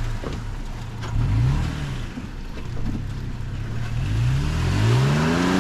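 Toyota Tacoma pickup's engine revving under load, rising in pitch briefly about a second in and climbing again over the last second and a half, as the truck tries to drive out of mushy, slushy snow it keeps sliding off.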